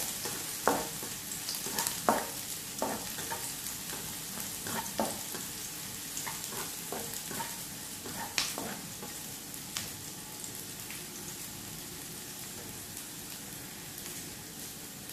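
Sliced shallots and garlic sizzling steadily in hot oil in a granite-coated wok, with a spatula scraping and tapping against the pan as they are stirred. The stirring strokes thin out after about ten seconds, leaving mostly the sizzle.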